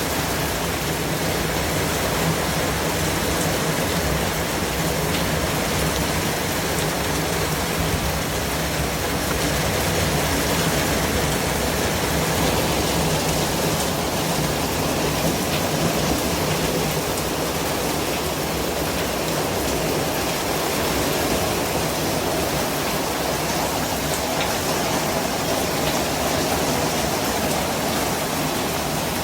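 Continuous white noise: an even, unchanging rush with its weight in the lower frequencies.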